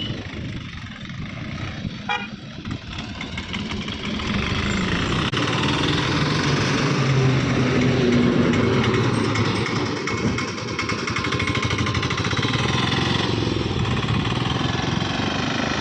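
A motor vehicle's engine running steadily, growing louder about five seconds in and holding there.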